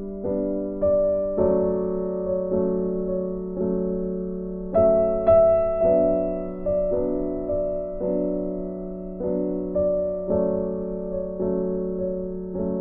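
Slow, gentle piano music: notes and chords struck about once a second, each ringing and fading before the next.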